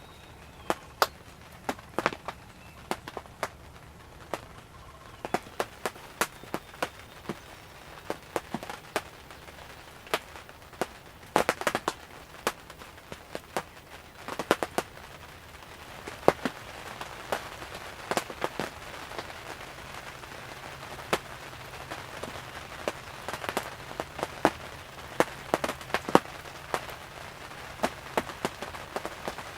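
Raindrops striking the fabric of a ground blind: many irregular sharp taps over a steady hiss of rain, which grows louder about halfway through.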